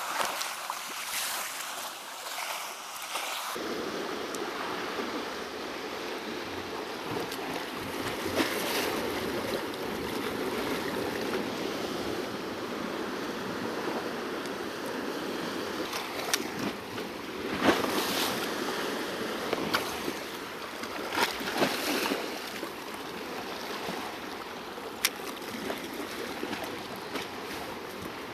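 Sea waves washing against shoreline rocks, a steady wash of water. There are a few short, sharp knocks or splashes about two-thirds of the way through.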